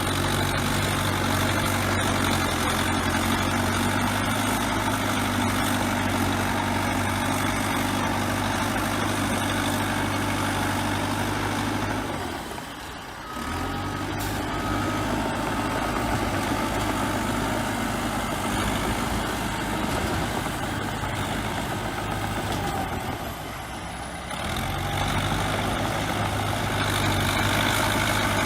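Bulldozer's diesel engine running steadily under work, easing off briefly about halfway through and again near the end before coming back up. A few faint short beeps sound around the middle.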